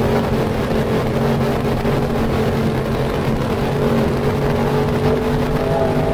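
Race car engine running hard on track, a steady multi-toned drone whose pitch sags slightly about two to three seconds in, then climbs again.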